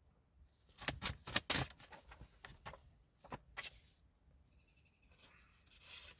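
A deck of cards being shuffled and handled: a quick run of crisp snaps and flicks for about three seconds, then a lull with a few more snaps near the end.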